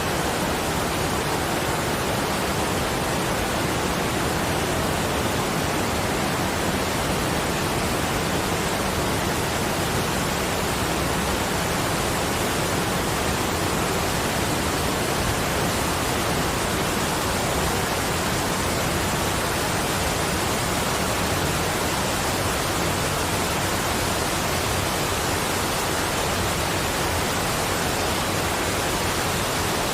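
Steady rushing water, an even hiss spread across all pitches that never changes.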